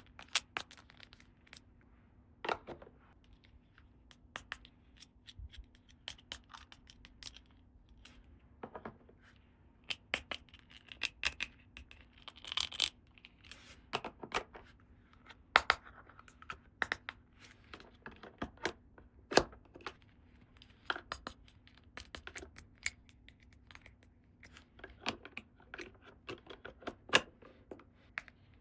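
Small plastic toy pieces being handled and set down on a hard surface: irregular sharp clicks and taps, with a brief rustle about twelve seconds in.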